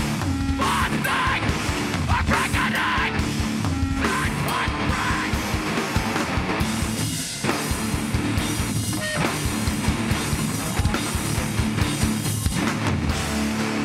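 A live hardcore/heavy band playing loud, fast music, with dense pounding drums under distorted electric guitar.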